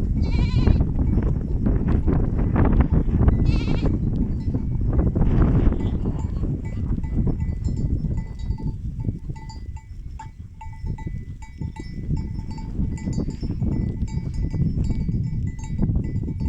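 Sheep bleating twice in the first four seconds, then the small bells worn by the flock clinking and ringing repeatedly from about seven seconds on, all over a heavy low rumble.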